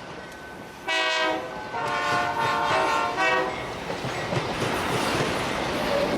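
Diesel freight locomotive's air horn sounding a short blast about a second in, then a longer one. The horn is followed by the steady rushing noise of the train running past.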